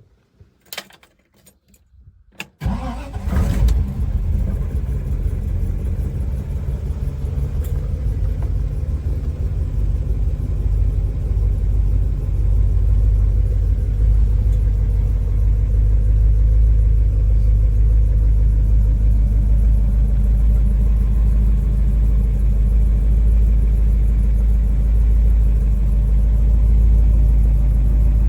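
A 1955 Ford Fairlane's 272 Y-block V8 starts about two and a half seconds in, then runs with a steady low rumble.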